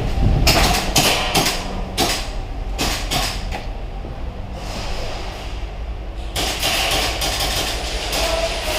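A run of irregular sharp knocks and clacks, spaced about half a second to a second apart, over a steady rumbling background noise. The knocks are thickest in the first few seconds and again in the last couple of seconds.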